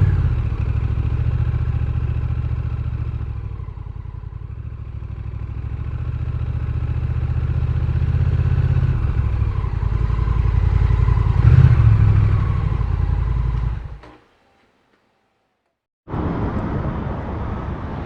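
Honda Rebel 1100's parallel-twin engine running under way, easing off for a few seconds and then building up to its loudest about two-thirds of the way through. It cuts off abruptly, and after about two seconds of silence a steady vehicle noise comes back in.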